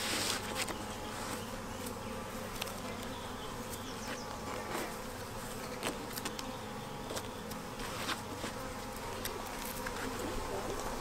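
A honeybee swarm buzzing steadily, many bees in the air around the hive box as it is being hived, with a few faint ticks.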